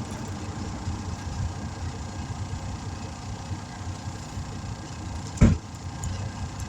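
A motor running steadily with a low, fast chugging, as while a tire is being aired up; one loud thump about five and a half seconds in.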